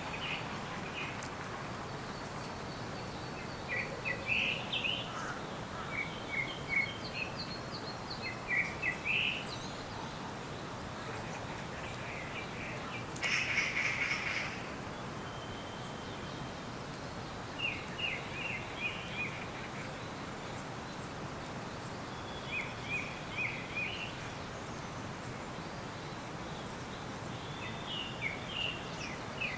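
Small forest birds calling: quick runs of short, high chirps every few seconds, with a denser burst of calls about halfway through, over a steady background hiss.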